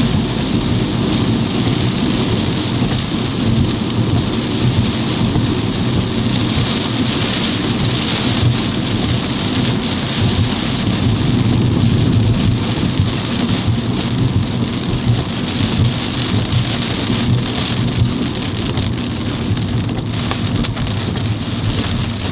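Heavy rain beating on a car's roof and windshield during a sudden downpour, a steady loud hiss heard from inside the moving car, with a low road and engine hum under it.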